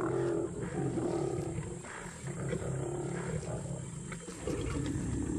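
Lions growling in low, continuous rumbles while holding down and biting a buffalo at the kill.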